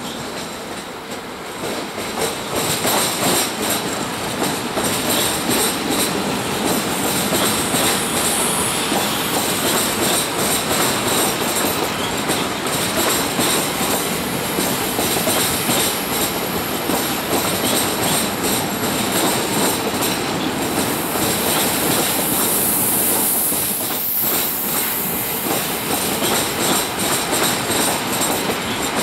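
A train running past on the rails, loud and steady, with wheels clattering over rail joints. A high screech of wheels on rail comes about three quarters of the way through.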